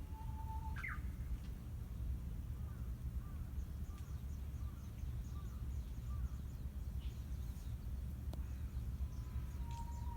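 Japanese bush warbler singing its "hoo-hokekyo" song: a long held whistle ending in a quick rising flourish about a second in, then a run of short soft notes, and another long whistle starting near the end. Faint high chirps sound in the middle over a steady low background rumble.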